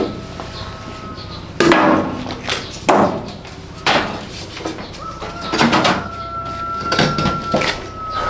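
Five or so sharp knocks, about one a second, with a thin steady high tone held through the second half.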